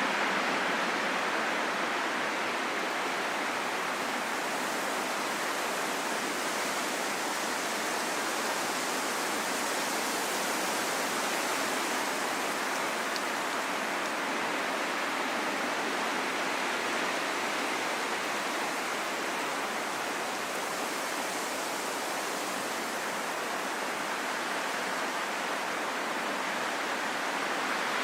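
Steady wind sound: an even, hissing rush with little low rumble, swelling and easing slightly and slowly.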